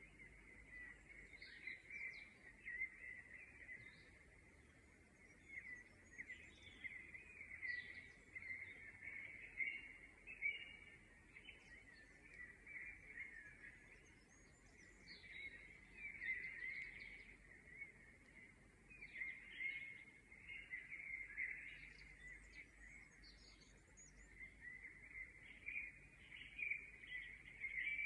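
Faint chorus of many small birds chirping and twittering together, swelling and fading in bouts every few seconds.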